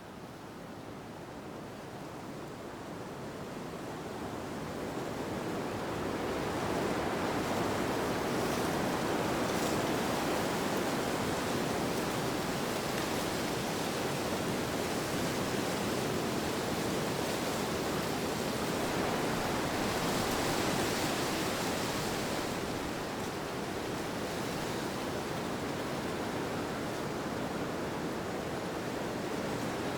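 Wind blowing as a steady, even rush, swelling over the first several seconds and then holding roughly level.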